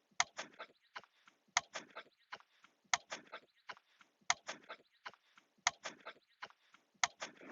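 Soccer ball struck by feet in a run of short, sharp taps, irregular and often in quick groups of two or three, as the ball is flicked up and juggled.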